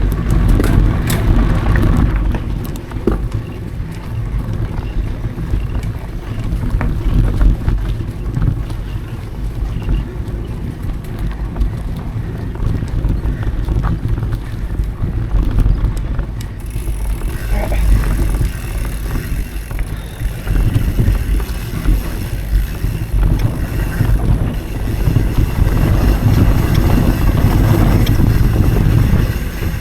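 Riding noise from a mountain bike on dry dirt singletrack: a steady rumble of wind on the action camera's microphone and tyres on the trail, with scattered knocks and rattles from the bike. A higher hiss joins in a little past halfway and stays.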